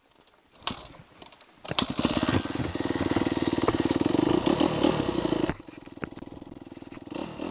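Kawasaki KX250F four-stroke single-cylinder dirt-bike engine starting, catching about two seconds in, then running with a fast, even beat. It drops back to a quieter idle about two-thirds of the way through and picks up again near the end.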